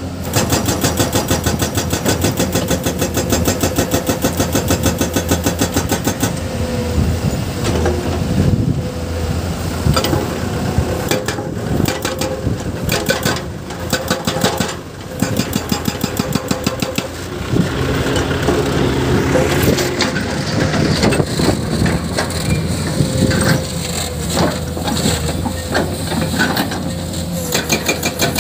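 Excavator working on rock with its diesel engine running. For about the first six seconds there is a rapid, even hammering, then irregular crunching and cracking of rock and dirt while the engine changes pitch.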